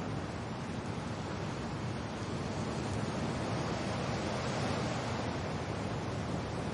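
Steady wind and rain, a dense even rush with a slight swell in the middle.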